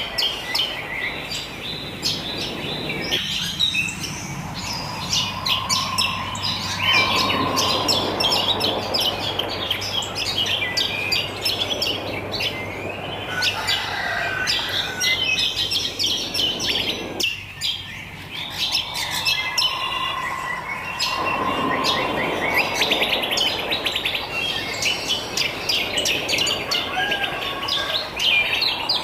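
A chorus of many wild songbirds chirping and twittering densely over one another. Twice, a lower held whistled note sounds beneath the chirping.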